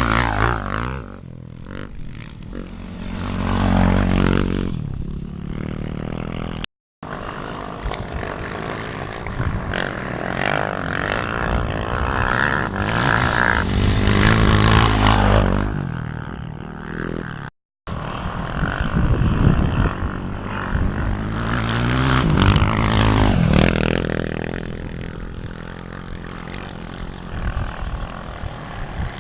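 Off-road racing motorcycle and quad engines revving hard and going past in several waves, their pitch rising and falling as they accelerate and change gear. The sound drops out completely for a moment twice.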